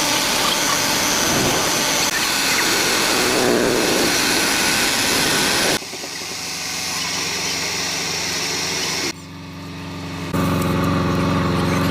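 Car engine running steadily, cut into short segments that change suddenly about six seconds in and again near the end.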